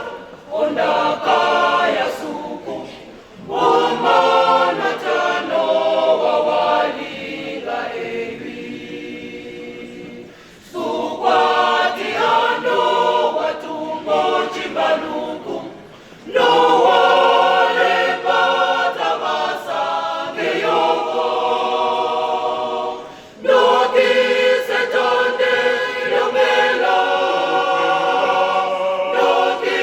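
A choir of many voices singing unaccompanied, in long phrases broken by brief pauses.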